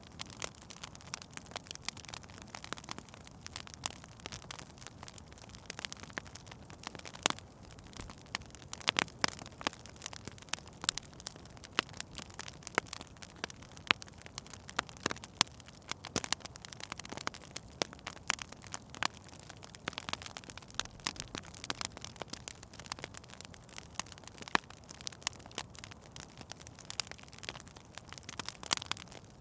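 Wood fire in a fireplace crackling, with frequent sharp irregular pops and snaps over a soft steady hiss of burning.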